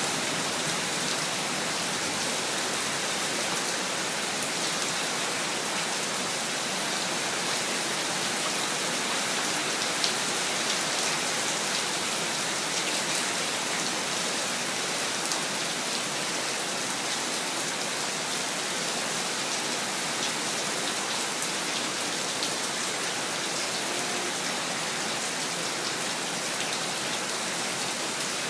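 Steady rain falling, a dense even hiss of drops on a surface with faint individual drop ticks and one slightly louder tap about ten seconds in.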